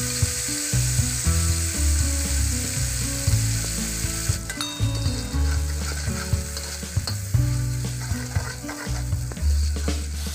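Onion and curry powder paste poured into hot oil in a wok, sizzling hard at first and easing a little about four seconds in, with a metal spatula stirring and scraping through it. A low hum that shifts in pitch in steps runs underneath.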